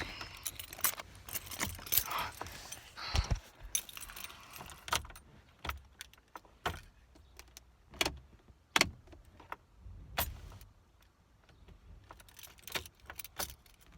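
A bunch of car keys jangling and clicking in short, irregular bursts as they are fumbled at the ignition.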